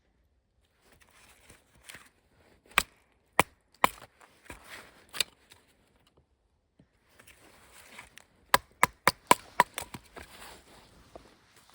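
Sharp blows of a blade into wood, chopping: a few single strikes, then a quick run of about seven strikes, several a second, a little past two-thirds of the way in.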